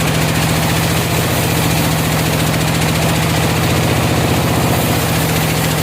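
Sawmill engine running steadily at constant speed, with fast, even firing pulses.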